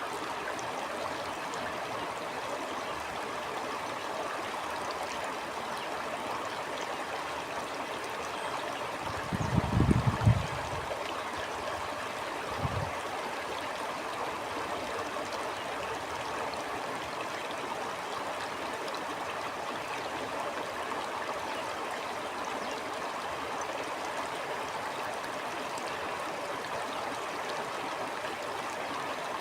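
Stream water flowing steadily with an even rushing sound. About nine seconds in comes a brief low rumble, the loudest moment, and a second, shorter one follows a couple of seconds later.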